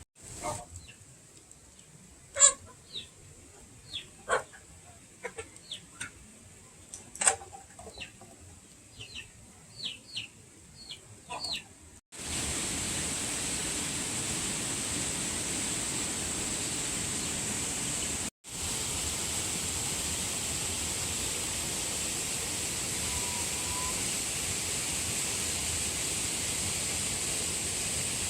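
Chickens clucking in short, scattered calls for about twelve seconds, then a sudden cut to a loud, steady rushing noise, with a brief gap near the middle.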